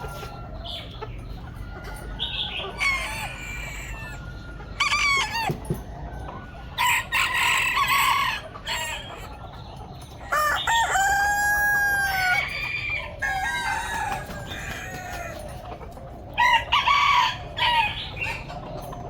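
Chickens calling: repeated clucks and squawks, and about ten seconds in a rooster crows with one long held call.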